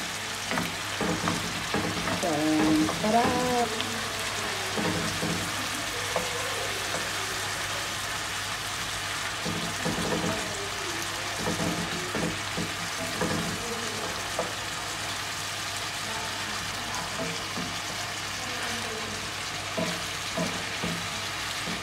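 Chicken livers, gizzards and hearts sizzling steadily in a cast iron skillet as they are stirred with a wooden spoon.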